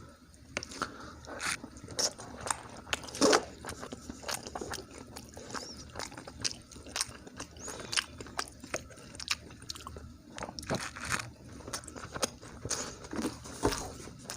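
Close-up eating and chewing: a person eating cheesy pasta and egg, with wet mouth smacks and soft clicks, irregular, a few a second.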